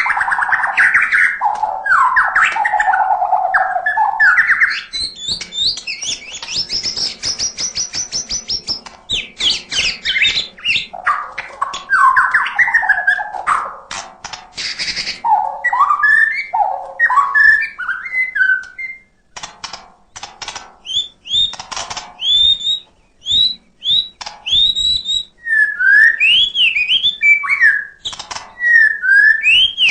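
White-rumped shama (murai batu) singing a long, varied song packed with imitated calls: low rich warbles at first, then a fast high trill, bursts of rapid ticking, and a run of repeated sharp upslurred whistles near the end.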